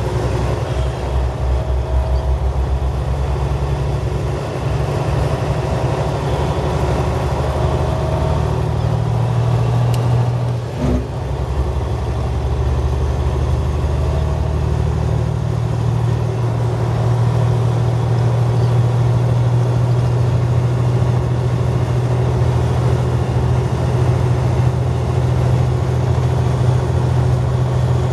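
Motor vehicle engine running steadily with a low hum, and a brief knock about eleven seconds in.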